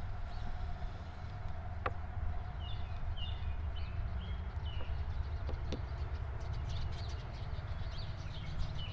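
Small birds chirping in short, falling notes, in clusters a few seconds apart, over a steady low outdoor rumble. A single sharp click about two seconds in, with two fainter ones later.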